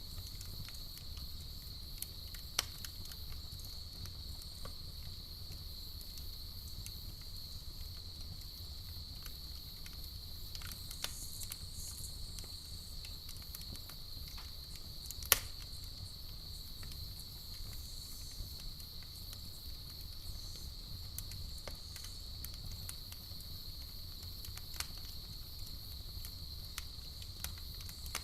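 Campfire burning with scattered sharp pops and crackles, two of them loud: one a few seconds in and one about halfway. A steady chorus of crickets goes on underneath.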